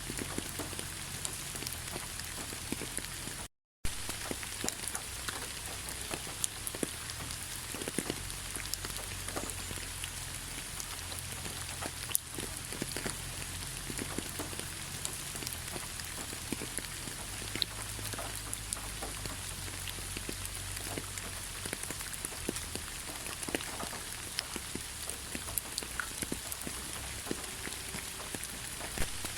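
Steady rain falling in a pine forest: an even hiss with many separate drops pattering close by. The sound cuts out completely for a split second about three and a half seconds in.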